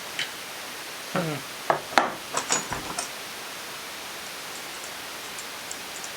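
A handful of sharp metal clicks and clinks from hand tools working a cylinder stud nut on a two-stroke motorcycle engine, bunched between about one and three seconds in, over a steady hiss.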